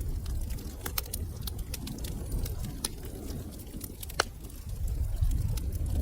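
Wood fire burning in a fireplace: a low steady rumble of flames with irregular sharp crackles and pops, one louder pop a little after four seconds in.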